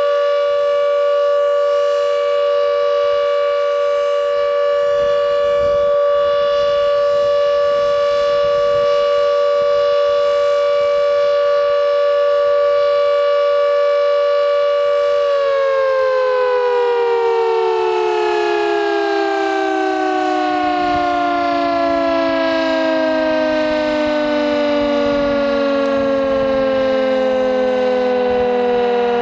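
Carter 1H flood warning siren holding a steady tone, then about halfway through its pitch starts to fall slowly and keeps sliding down as the siren winds down.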